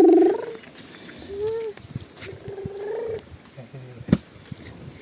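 A young child's voice making short pitched "brum" toy-car engine sounds. The loudest comes right at the start and a few shorter ones follow, with a sharp click about four seconds in.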